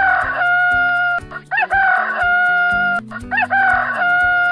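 Rooster crowing three times in a row, each crow a short rising start drawn out into a long held note, over background music.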